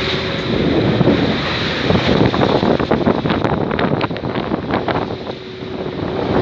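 Wind buffeting the microphone over the rush of rough sea around a small boat, with water slapping and splashing against it in quick bursts in the middle of the stretch.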